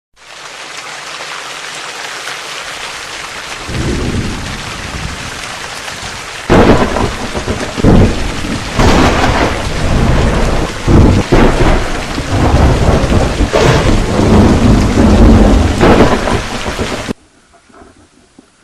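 Thunderstorm: steady rain hiss, then from about a third of the way in, repeated loud thunderclaps and rumbles over the rain, cutting off abruptly near the end as an edited-in effect.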